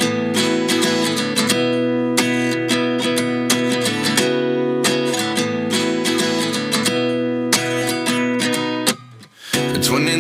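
Background music: a song's intro of strummed acoustic guitar chords at a steady rhythm, dropping out briefly about nine seconds in before fuller music comes back.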